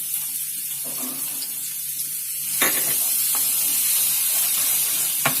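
Chopped garlic sizzling in hot oil in a pan, the sizzle getting louder about two and a half seconds in, with a sharp clack near the end.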